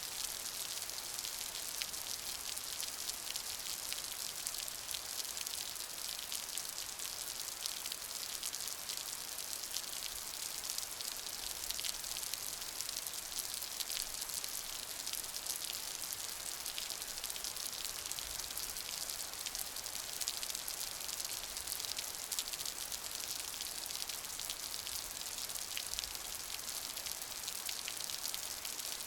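Steady rain falling, a dense even hiss full of fine drop patter.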